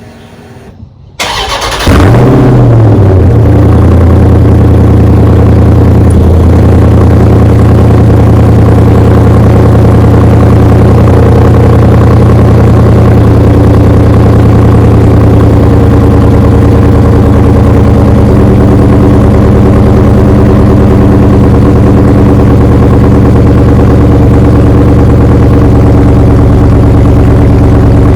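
Dodge Charger Scat Pack's 6.4-litre HEMI V8 cold-started on its stock exhaust: a brief crank about a second in, then it catches loudly with a quick flare of revs and settles into a steady idle.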